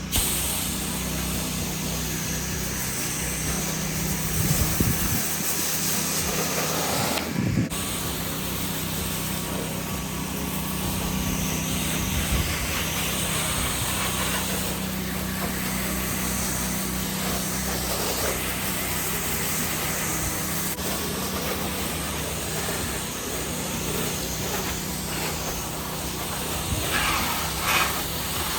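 Gas engine of a pressure-washing pump rig running steadily, with the hiss of its water spray.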